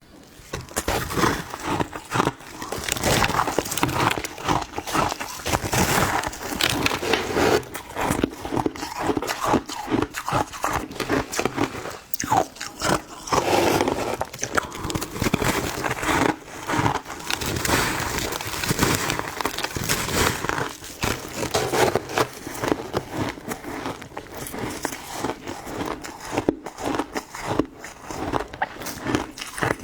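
A person biting and crunching ice, with dense crackling crunches and chewing that go on without a break.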